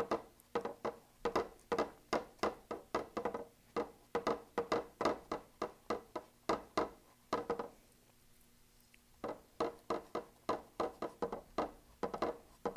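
Fan brush dabbing and flicking acrylic paint onto a stretched canvas: quick runs of taps, several a second, with a short pause about two-thirds of the way through.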